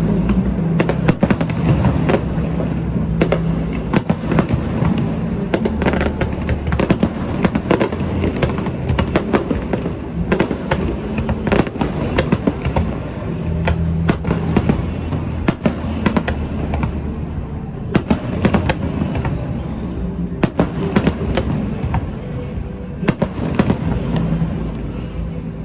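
Aerial fireworks bursting and crackling in rapid succession, many sharp bangs a second, over music playing along with the show.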